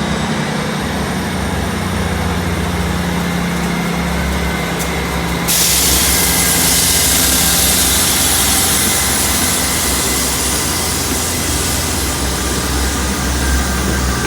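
Diesel train engines running at a station platform, one pitch rising at the start as an engine revs up. About five seconds in, a loud steady hiss suddenly joins the engine sound and carries on.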